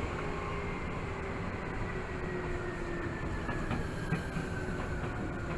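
Running noise heard inside a Tokyu 8500 series commuter train: steady wheel-and-rail rumble with a traction-motor whine that falls slowly in pitch as the train slows for a station stop.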